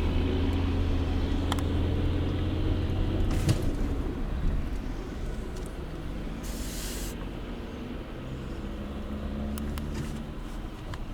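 A motor vehicle's engine running steadily, louder in the first few seconds and then easing off, with a few sharp clicks and a short hiss about six and a half seconds in.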